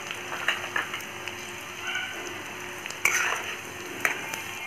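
Chopped garlic, ginger and green chilli sizzling in hot oil in a metal kadhai, stirred with a metal spatula that clinks and scrapes against the pan a few times, loudest about three seconds in.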